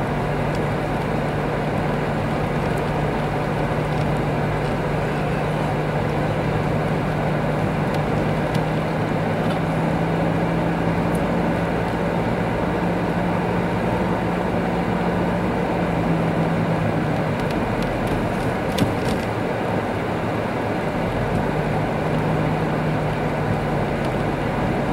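Steady car-interior noise heard from the dashboard: engine hum and tyre rumble while driving slowly on an icy road. The engine note rises a little, eases off about two-thirds of the way through, then comes back near the end.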